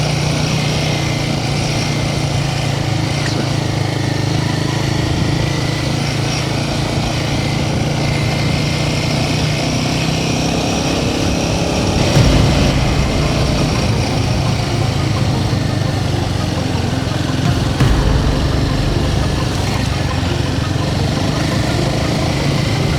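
Royal Enfield Himalayan 450's single-cylinder engine running steadily under way, with a steady rush of wind and tyre noise over it. The low rumble swells briefly about twelve seconds in and again near eighteen seconds.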